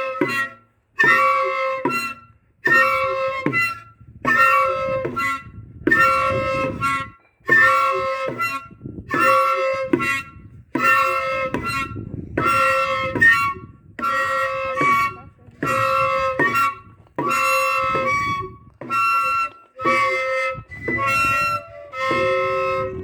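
Chino flutes (flautas de chino), thick cane flutes blown in strong single-pitch blasts with a harsh, buzzing tone, sounding over and over in a steady rhythm of a little under one blast a second.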